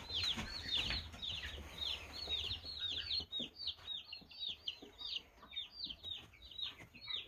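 Baby chicks peeping steadily: many overlapping short, high peeps that slide downward, several a second.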